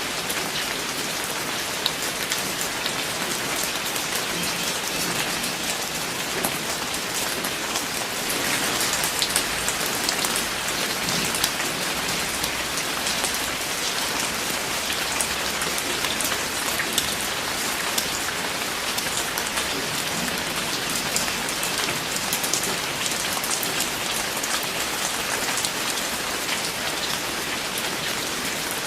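Steady rain falling on a hard surface, a continuous hiss with many small drop ticks scattered through it.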